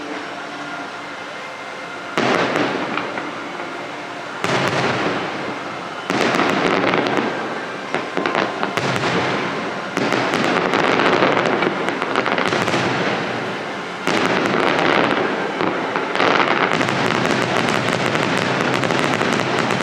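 Aerial fireworks going off in a series of loud bursts every two to four seconds, each followed by sustained crackling.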